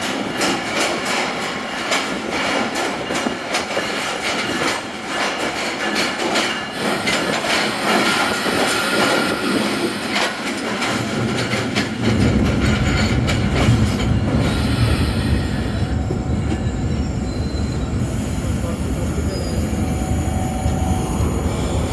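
Passenger train running on the rails, its wheels clattering rapidly over the track with a brief high squeal. About halfway through, a deeper rumble comes in and stays.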